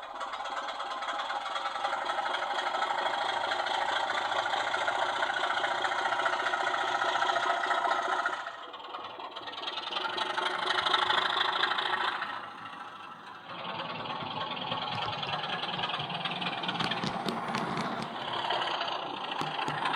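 Sound-fitted OO gauge model Class 24 diesel locomotive running, its onboard speaker playing a diesel engine sound whose note shifts a few times as the model moves, with a run of small clicks and rattles near the end.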